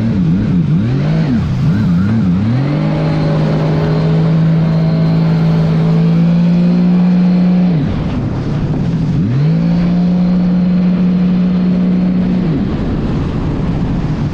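Sea-Doo GTS130 personal watercraft engine under way: the revs rise and fall for a couple of seconds, then hold steady at high throttle. The engine drops off sharply about halfway through, climbs back to a steady high pitch, and falls away again near the end.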